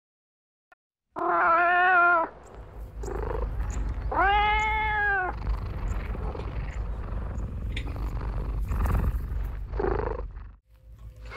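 Kitten meowing: a loud meow about a second in and a second, arched meow around four seconds in, followed by a few fainter meows, over a steady low rumble.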